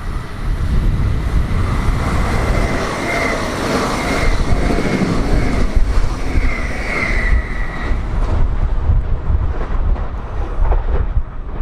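A train running past close by, with a loud steady rumble. From about three seconds in to about eight seconds in, a high wavering tone rides over the rumble.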